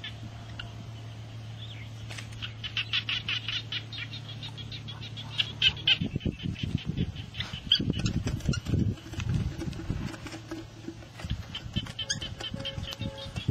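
Birds chirping in quick runs, with a low steady hum that stops about halfway. Irregular low knocks and rustling follow in the second half.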